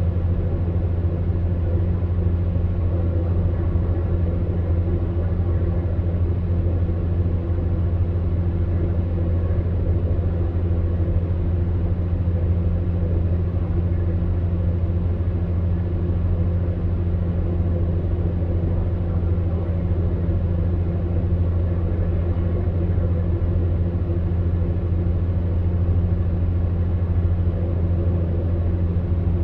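Electric fan heater running with a steady, even, low hum.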